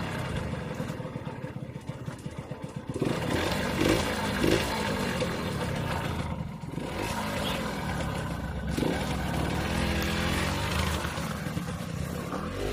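Yamaha YSR50 minibike's small two-stroke single-cylinder engine running, blipped up in revs several times between stretches of lower, pulsing running.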